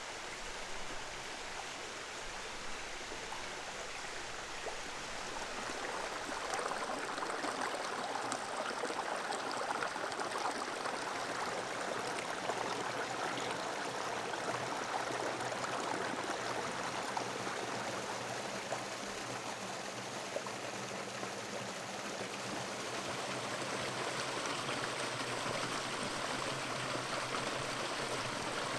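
Running water, such as a stream: a steady rushing flow that grows a little louder about six seconds in.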